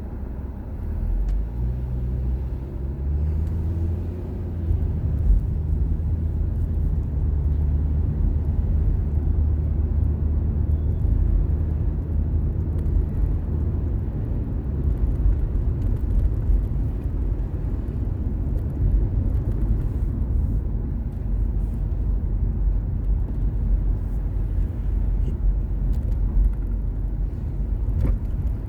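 A car's engine and road noise, heard from inside the moving car: the engine note rises as it accelerates about a second in, then settles into a steady low rumble.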